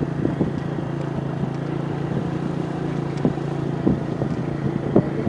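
Motorcycle engine running at a steady speed, with frequent short knocks and rattles over the top.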